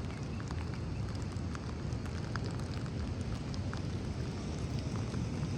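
Steady rain with many scattered drop ticks over a low rumble.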